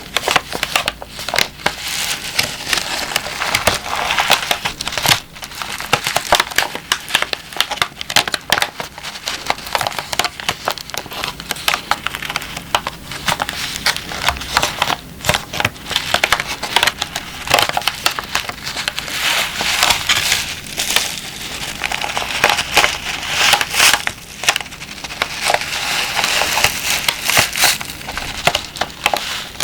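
Crinkly packaging being crumpled and squeezed by hand close to the microphone. It makes a dense, continuous run of crackles broken by sharp snaps, with short softer stretches.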